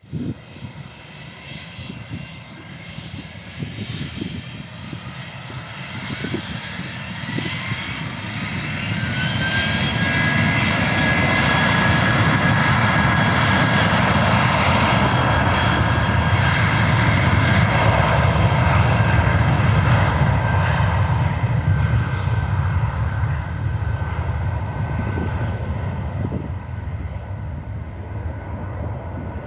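Vueling Airbus A320-family jet airliner taking off. Its engines' whine rises in pitch as they spool up to takeoff thrust, then holds steady over a loud rushing roar. The roar builds, peaks about halfway through and fades as the plane climbs away.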